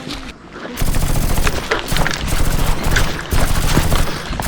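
Airsoft guns firing on full auto in several rapid bursts of clicking shots, starting about a second in.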